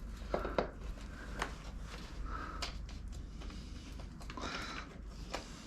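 Faint, scattered clicks and short squeaks of a hand screwdriver working small screws loose from motorcycle fender and ground-wire mounts, over a steady low hum.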